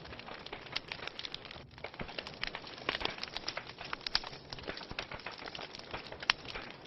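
Wood fire in a fireplace crackling: a steady stream of irregular pops and snaps over a soft hiss, with a few louder snaps.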